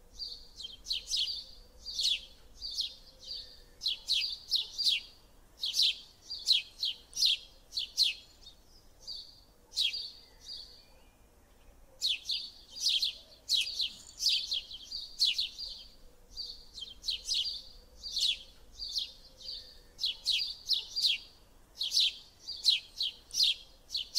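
A small bird chirping over and over in quick clusters of two to four high, sharp notes, with a short lull about ten seconds in.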